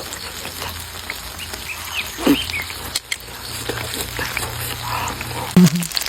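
Tofu frying in hot oil: a steady crackling sizzle with many small pops and clicks. A brief voice sound comes near the end.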